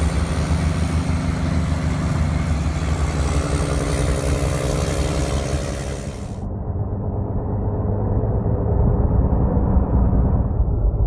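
Engine of a snow-clearing machine running steadily under load. About six and a half seconds in, the sound abruptly turns duller as the top end drops away, and a different machine's engine carries on.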